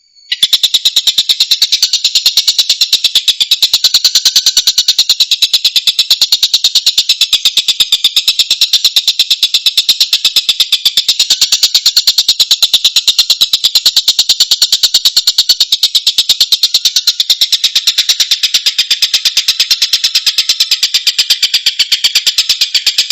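Tengkek buto (stork-billed kingfisher) call recording: a loud, high-pitched, fast continuous rattling chatter that starts abruptly and keeps up without a break.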